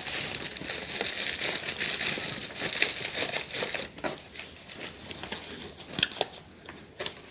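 Plastic packaging wrap crinkling as it is handled and pressed into a box. After about four seconds it dies down to a few light clicks and taps.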